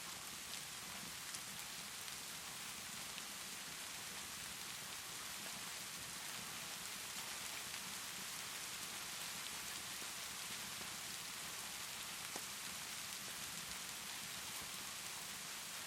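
Steady rainfall, an even hiss, with a few faint sharp crackles from a wood fire in a fireplace, the clearest about a second in and again near the end.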